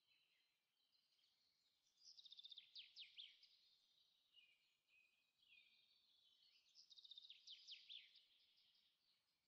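Faint birdsong: a small bird singing phrases of quick, falling chirps and rapid trills, louder about two seconds in and again about seven seconds in.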